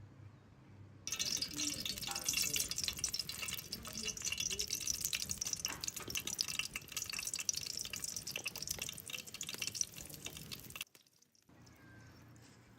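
Running, splashing water full of small drips and patters. It starts abruptly about a second in and cuts off suddenly near the end.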